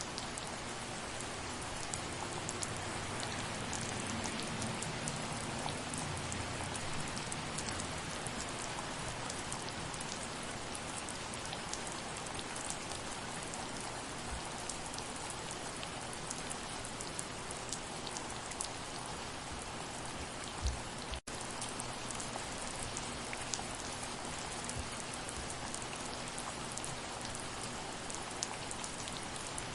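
Soft, steady rain falling, with scattered individual drops ticking through the hiss. About two-thirds of the way in there is a brief low thud, and the sound drops out for a split second.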